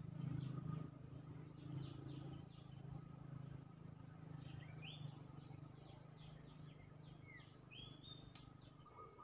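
Wild birds chirping and calling, with quick high chirps and two rising whistled notes about five and eight seconds in, over a faint, steady low hum.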